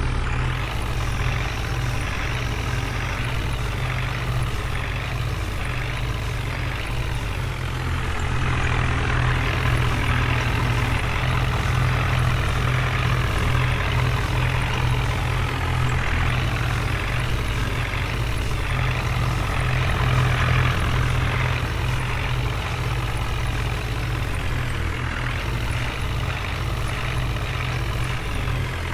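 Heavy diesel engine running steadily with a deep, continuous hum, getting a little louder about eight seconds in.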